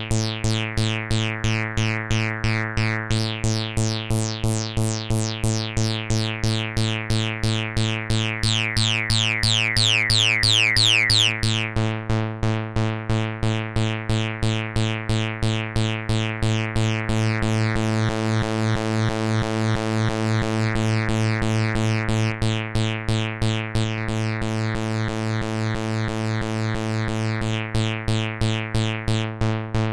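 Electronic bass synth from the Zic Pixel DIY groovebox's bass engine playing a repeating low note pattern, pulsing about four times a second. The upper tone sweeps and shifts in brightness as the sound is tweaked, brightest between about two and twelve seconds in.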